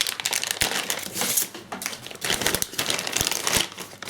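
Packaging around a model-kit part being unwrapped by hand: steady rustling with many small irregular crackles and clicks.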